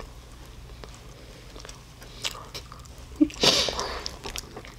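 Close-up chewing of soft sandwich bread with chocolate cream, with small wet mouth clicks. About three and a half seconds in, a brief crinkle of plastic wrapping as the sandwich is handled.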